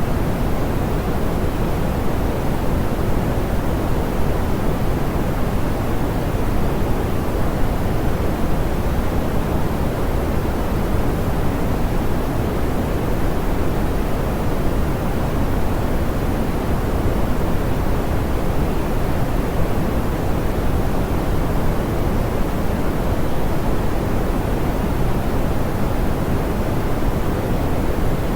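Steady, smoothed pink noise: an even, unchanging hiss, strongest in the low end and dull at the top.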